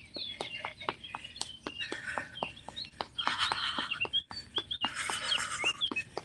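Songbirds chirping over a steady run of light knocks, about four a second, with two stretches of hiss around three and five seconds in.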